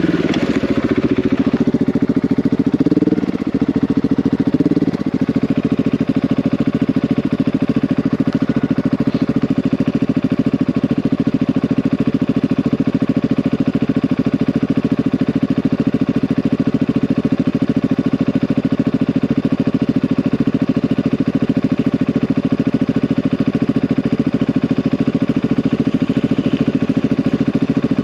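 A single-cylinder trail motorcycle engine is revved up and down a couple of times over the first few seconds, then runs at a steady, even note.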